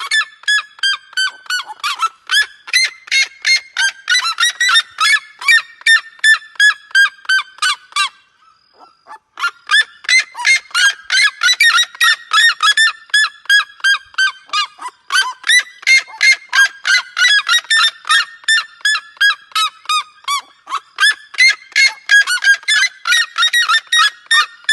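A bird's loud honking calls, repeated rapidly at about three to four a second, with a pause of about a second and a half some eight seconds in before the honking resumes.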